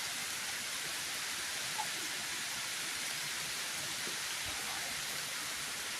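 Rain falling steadily: an even hiss.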